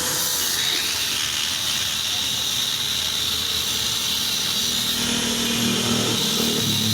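Honda Win motorcycle's small single-cylinder engine running through an aftermarket imitation exhaust, heard under a steady hiss. About five seconds in, the low exhaust note comes up and grows louder.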